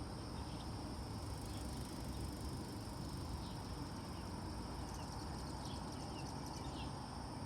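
Steady insect chirring, holding two high tones, over a constant low rumble, with a few short faint chirps scattered through.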